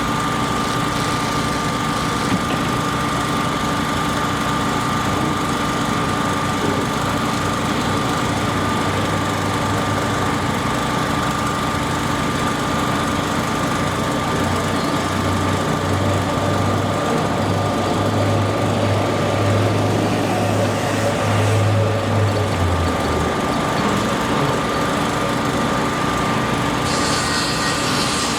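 A machine's engine running steadily, with a deeper hum that swells in from about halfway through and drops away a few seconds before the end.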